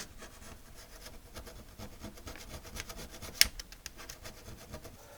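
Hand file rasping rust off a metal RF shield in a quick run of short strokes, with one sharper click about three and a half seconds in.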